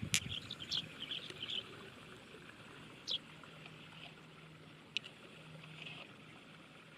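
Faint trickling water, broken by a few short, sharp, high chirps or clicks: a cluster in the first second and a half, then single ones about three and five seconds in. A low steady hum comes and goes in the second half.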